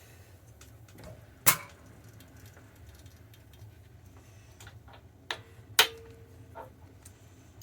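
Sharp metal-on-metal knocks and lighter clinks as new bushes are fitted into a lathe gear. The two loudest strikes come about a second and a half in and near six seconds, with smaller taps between them.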